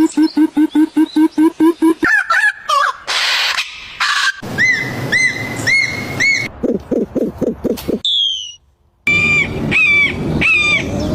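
A succession of different forest bird calls spliced one after another: first a fast run of repeated short notes, then chirps, repeated arching whistles over low pulsing calls, and more whistled phrases. The calls change abruptly, with a brief silent gap about two-thirds of the way in.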